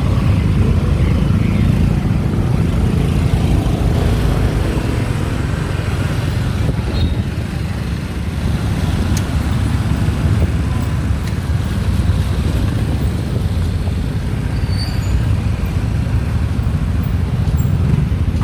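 Steady low rumble of wind and road noise from a moving motorbike taxi in city traffic, with no pauses or single loud events.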